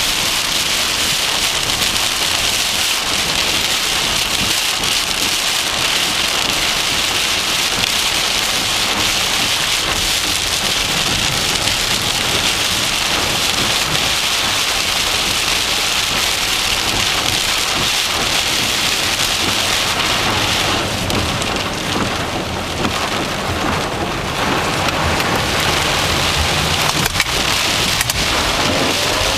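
Heavy thunderstorm rain pelting a car in a loud, steady hiss. It eases slightly a little past twenty seconds in and builds back up a few seconds later.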